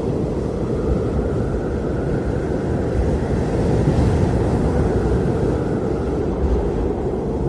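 Blizzard wind blowing steadily: a deep, constant rumble with a fainter higher whistle that swells as a gust about halfway through.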